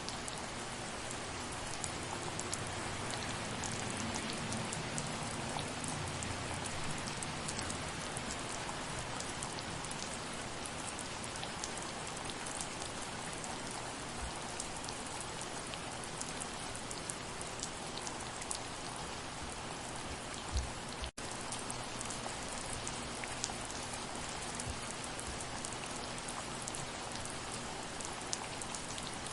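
Soft, steady rain falling, with many individual drops ticking close by. About two-thirds of the way through, the sound cuts out for an instant.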